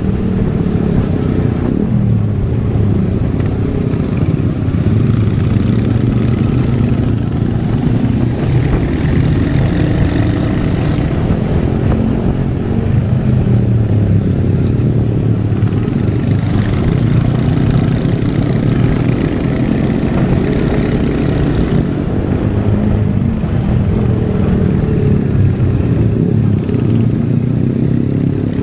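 Royal Enfield Hunter 350's single-cylinder engine and exhaust running under way. Its pitch rises and falls as the throttle opens and closes.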